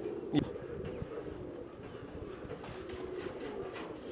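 Domestic pigeons cooing steadily and overlapping, with a single sharp knock about half a second in.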